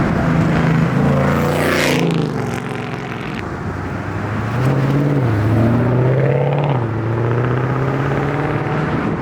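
Performance car engines accelerating hard out of a parking lot, loud exhaust notes climbing in pitch. A sudden rush of noise comes about one and a half seconds in, and the pitch drops sharply and climbs again around five seconds as a gear changes.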